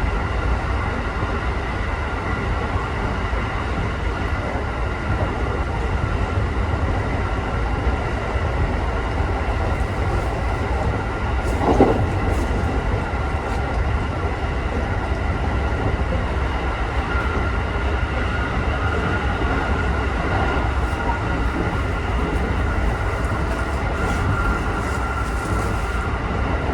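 Electric local train running between stations, heard from inside the car: a steady low rumble of wheels on the rails with a steady electric whine over it. One brief louder knock comes about halfway through.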